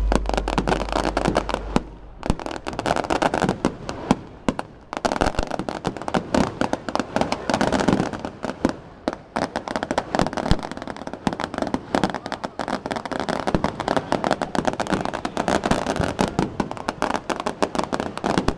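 Fireworks going off in a dense, continuous barrage of rapid bangs and crackles, with brief lulls about two and four and a half seconds in.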